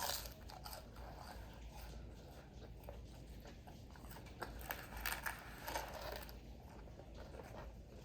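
A person biting and chewing crispy fried food, crunching. There is a loud crunch at the start and a cluster of louder crunches about four to six seconds in.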